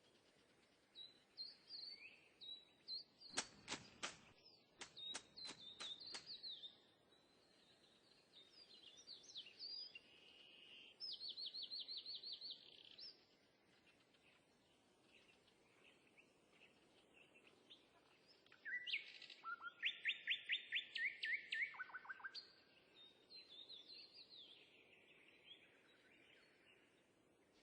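Small birds chirping, with two fast trills of repeated high notes, one about eleven seconds in and one around twenty seconds. A handful of sharp clicks come a few seconds in.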